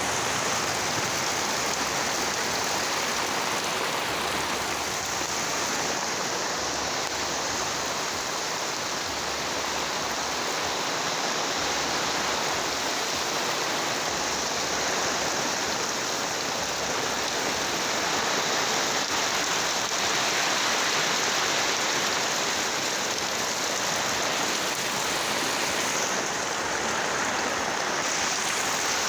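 Heavy rain falling, a steady, even hiss that holds at the same level throughout.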